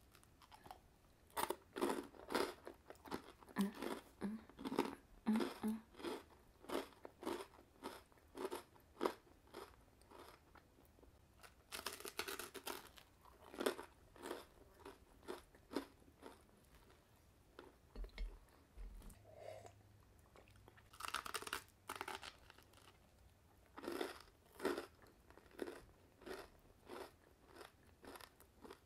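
A person biting into and chewing a toasted Lean Cuisine panini sandwich: crunchy chewing in quick runs of about two to three chews a second, with short pauses between the runs.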